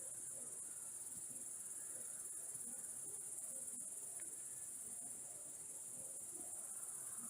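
Crickets trilling: a steady, high-pitched chirring.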